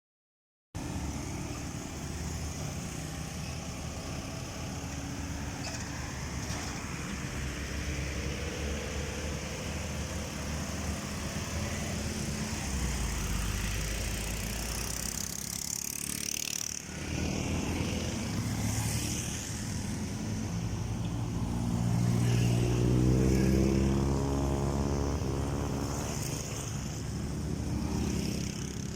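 Road traffic: truck and car engines running as vehicles pass. Later on, one heavy engine grows louder and rises in pitch, then fades.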